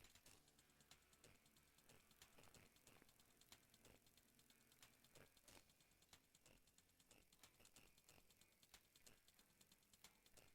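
Near silence with faint, irregular clicks and ticks, several a second. These are the leftover residue of an AI vocal isolation after the vocals have ended.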